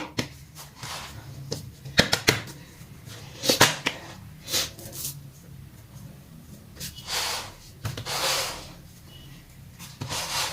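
Kitchen handling noises while working pastry dough: scattered knocks and taps on the counter, then a few brief rustles, over a faint low steady hum.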